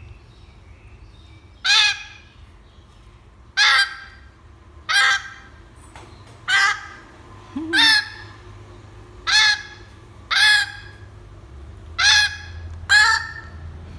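Grey parrot giving loud, harsh begging calls while being hand-fed: nine short squawks, about one every second or so.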